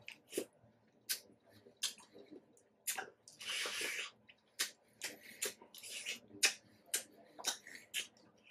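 Close-up mouth sounds of someone eating pomegranate seeds: uneven wet clicks, smacks and crunches as the seeds are chewed, with a longer noisy sound about three and a half seconds in.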